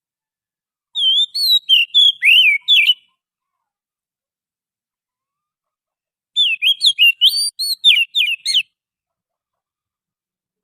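Oriental magpie-robin (kacer) singing: two phrases of quick, varied whistled notes, each about two seconds long, separated by about three seconds of silence.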